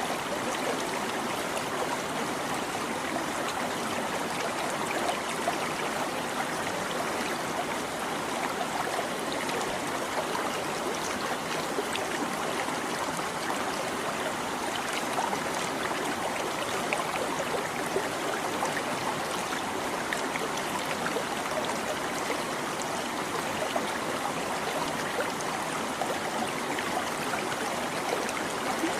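Stream babbling and trickling steadily over stones, a continuous even rush of running water with fine gurgles.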